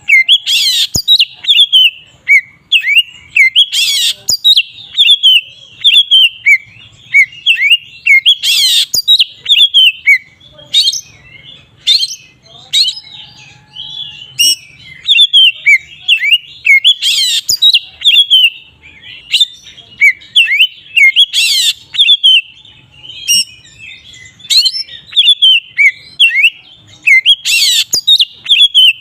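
Oriental magpie-robin in full, continuous song: a fast, unbroken run of varied whistled and chirping notes, with a louder harsh note about six times.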